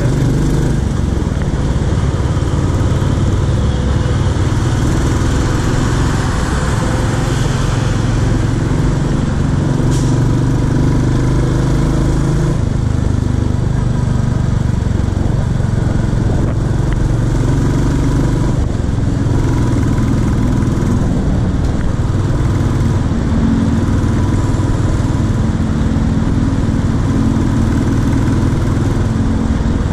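Royal Enfield Classic 350's single-cylinder engine running as the motorcycle is ridden through city traffic, its pitch shifting a little as the throttle changes.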